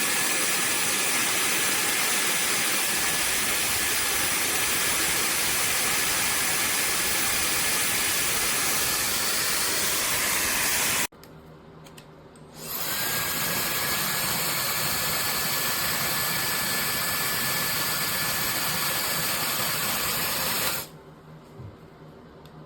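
Slopehill high-speed hair dryer with a 110,000 RPM motor running: a steady rush of air with a thin high whine. It cuts off abruptly about halfway through, starts again a second and a half later with the whine rising slightly as the motor spins up, and switches off again near the end.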